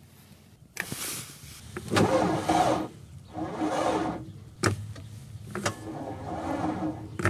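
Mercedes-Benz T1 bus's starter circuit clicking and straining in about three short bursts without cranking the engine: the starter won't spin on a weak, cold-discharged battery.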